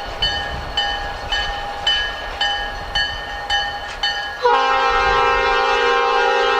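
Railroad crossing bell ringing about twice a second, then, about four and a half seconds in, the EMD SD40-2 locomotive's multi-chime air horn starts a loud, held blast that drowns it out.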